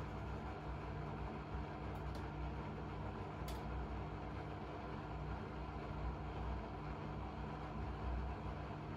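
Blomberg fuzzyDigitronic Granat 3200 washing machine running with a steady motor hum over a low drum rumble, with two faint clicks about two and three and a half seconds in.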